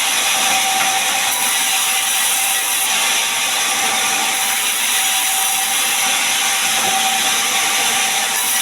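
Sawmill saw cutting lengthwise through a gmelina log into boards: a loud, steady, high-pitched cutting noise with a faint steady whine running through it.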